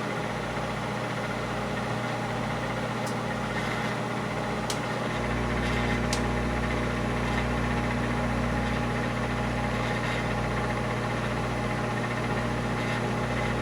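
Steady electrical hum of a running appliance, pitched at mains frequency with many overtones, its low rumble filling out about five seconds in, with a few faint ticks.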